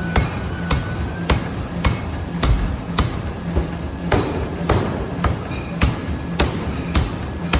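Pneumatic power hammer striking hot metal in a steady rhythm, a little under two blows a second, over the continuous din of a forging shop.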